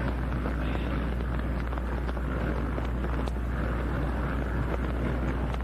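Steady racetrack background noise: distant motocross bikes running, under a constant low hum.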